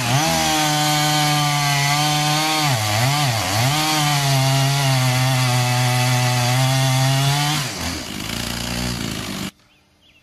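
Chainsaw running at high revs while cutting wood, its engine pitch dipping twice briefly about three seconds in as it takes load. Near the end the engine note falls away, and the sound cuts off suddenly.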